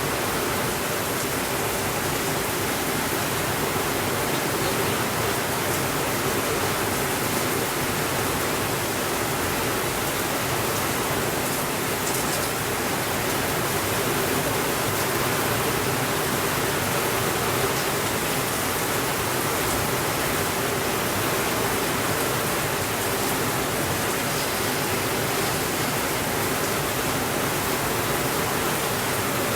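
Steady rainfall, an even hiss with no thunder and no changes in level.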